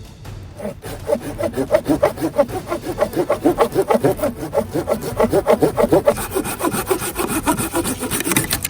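Hand saw cutting through wood with fast, even back-and-forth strokes, about four to five a second, starting about a second in.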